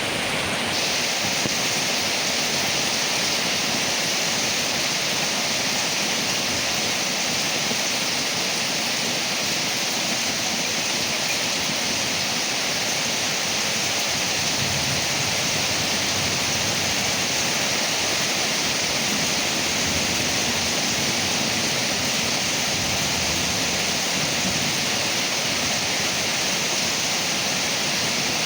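Rain falling on leaves, a steady even hiss without pause.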